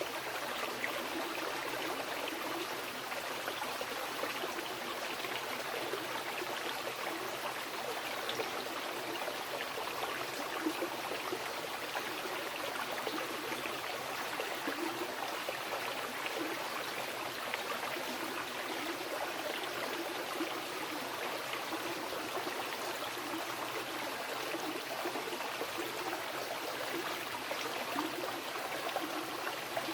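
A fast mountain river rushing and burbling over rocks in a steady, unbroken flow.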